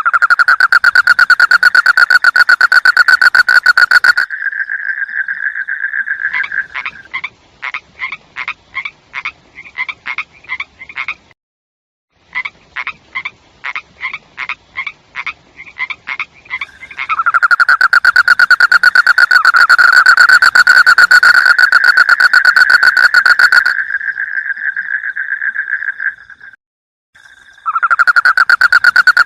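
A frog calling: long, fast, high trills alternating with runs of separate short notes about three a second, then a long trill again after a brief pause.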